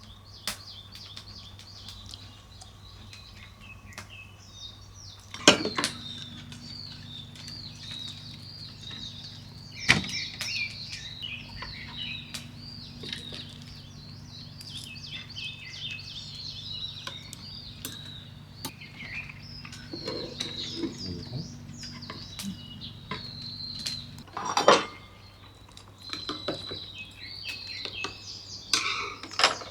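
Small birds chirping continuously, with a few sharp clinks of tableware. A low steady hum comes on about five seconds in and stops near the end.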